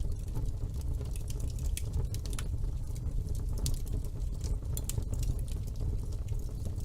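Wood fire burning in a fireplace, with a steady low rumble of the flames and frequent sharp crackles and pops at irregular intervals.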